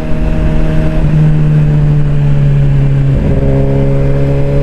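Suzuki GSX-R600 sport bike's inline-four engine running steadily under way, its pitch stepping down about a second in and again just after three seconds, with low wind rumble on the helmet microphone.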